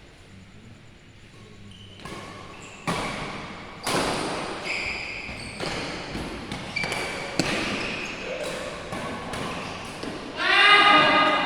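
Badminton rackets striking a shuttlecock in a reverberant sports hall: a string of sharp smacks, about one a second, with short high squeaks between. Near the end a loud shout, the loudest sound here.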